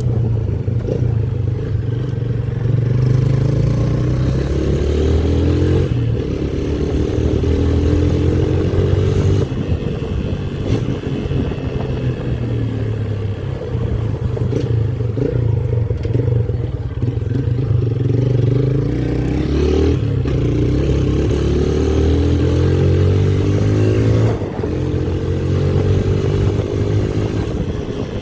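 Motorcycle engine under way, its revs climbing and dropping back several times as it accelerates, over a steady low rumble.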